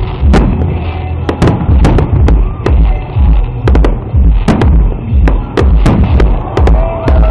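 Fireworks going off in a rapid, irregular series of sharp bangs and cracks. Under them runs loud music with a heavy bass beat repeating about every half second or so.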